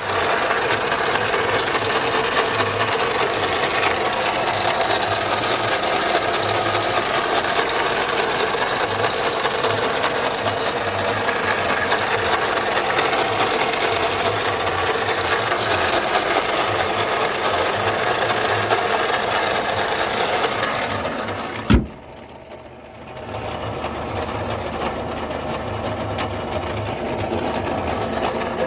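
Opel Insignia engine running with a loud, steady rattling from the air-conditioning compressor, which the owner takes for a failing compressor that needs replacing. A sharp click comes a little over twenty seconds in, the noise drops away for about a second and a half, then returns somewhat quieter.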